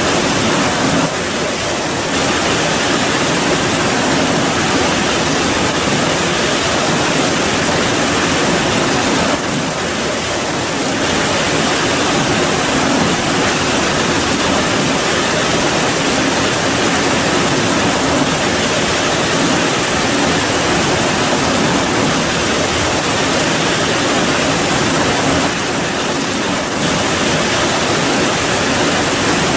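Steady rain: a loud, dense, even hiss with no separate drops or thunder, easing slightly for a second or so three times.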